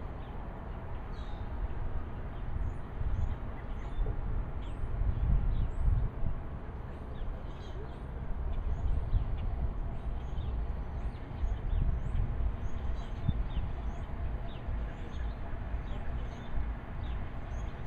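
Small birds chirping again and again, short high calls one or two a second, over a steady low rumble.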